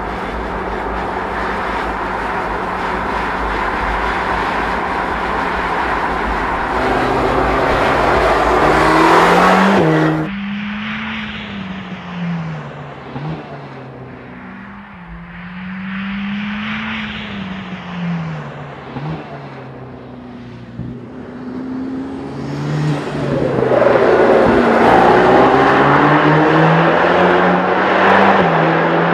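Mercedes-AMG GT Black Series' twin-turbo 4.0-litre V8 running hard on track. The engine note builds to a loud peak about ten seconds in and cuts off abruptly. It then rises and falls more quietly before climbing loud again near the end.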